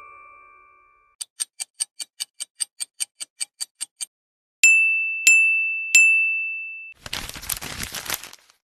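A string of edited sound effects: a chime dying away, then fast clock-like ticking, about five ticks a second for three seconds. Three bright bell dings follow, each ringing down, and a short burst of rushing noise like a whoosh comes near the end.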